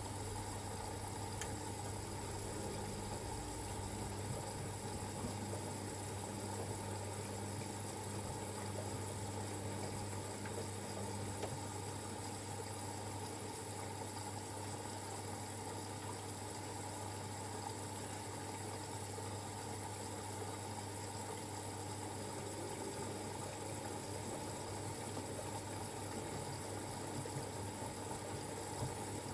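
Siemens Extraklasse XLs 140 A front-loading washing machine running a Cottons 60°C stains wash: a steady hum with water noise from the drum. A faint higher tone drops out about a third of the way through.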